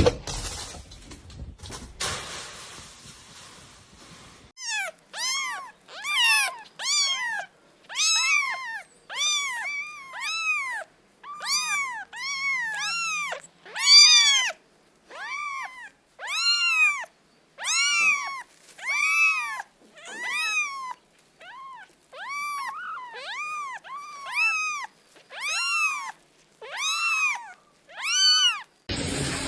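A cat meowing over and over, about one meow a second, each meow rising and then falling in pitch. The meowing starts a few seconds in.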